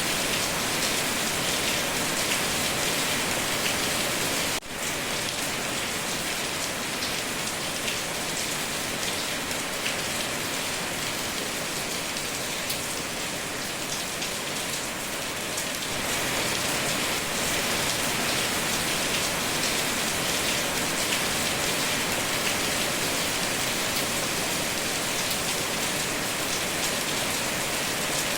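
Steady rain falling on a surface: a dense, even hiss of many drops. The level dips briefly about four and a half seconds in.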